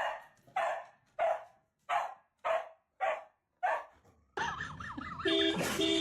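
A dog barking, seven short barks about two-thirds of a second apart. After about four seconds the barking stops, and a busier mix of other sounds begins.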